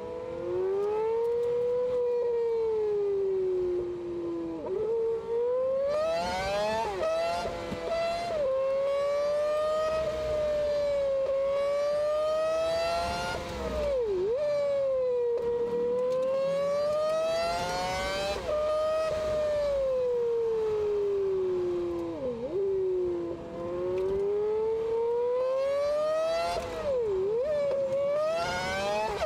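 Honda Civic EG6's swapped-in Integra Type-R 1.8-litre VTEC four-cylinder, with upgraded intake and exhaust, heard from inside the stripped cabin while driven hard on track. The engine note climbs steadily through each gear and falls away, with several quick dips and rebounds at the gear changes.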